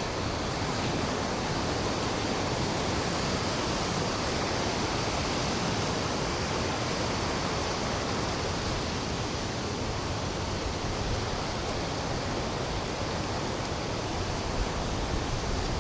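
Steady rushing roar of a large waterfall, an even wash of water noise that holds constant throughout.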